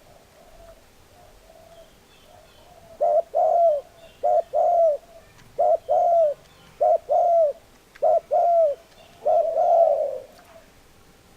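Spotted dove cooing: a few soft coos, then from about three seconds in five loud two-note coos about a second apart, ending in a longer drawn-out coo.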